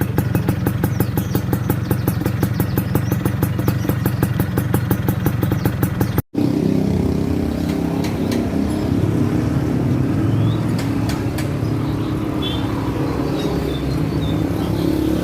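Yamaha Fiz R two-stroke motorcycle engine running through an IKR stainless racing exhaust, with a quick, even popping beat. About six seconds in, the sound cuts off abruptly and comes back as a busier, less regular engine sound with a few sharp clicks.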